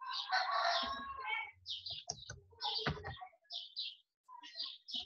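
Small birds chirping repeatedly, short high chirps a few times a second, with a denser run of calls in the first second or so. A few computer-keyboard key clicks come in among them.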